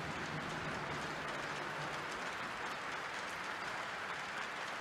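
Arena crowd clapping steadily in a sustained minute's applause.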